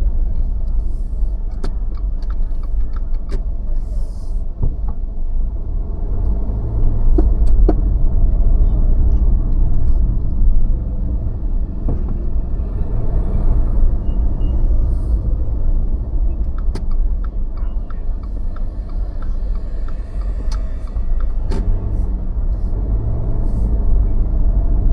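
Car driving slowly through city streets: a steady low rumble of engine and road noise, with scattered short clicks and ticks.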